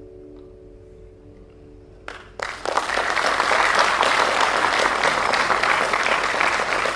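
The last plucked-string chord of a piece dies away, then about two seconds in a few claps start and a concert audience breaks into loud, sustained applause.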